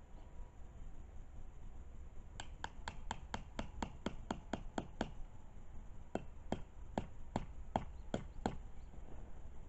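Two quick runs of sharp clicking taps, about three to four a second: roughly a dozen, a short pause, then seven more.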